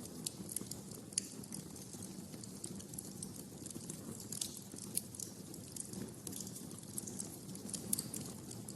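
Wood fire crackling in a fireplace: a steady low rush of flame under irregular sharp pops and snaps, a few louder ones about a second in, near five seconds and near eight seconds.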